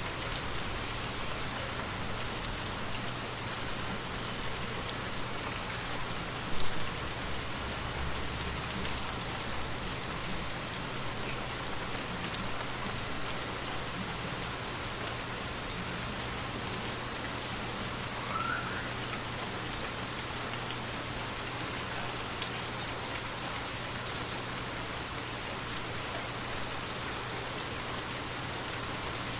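Steady rain falling on surfaces, an even hiss of drops, with one brief louder knock about six and a half seconds in.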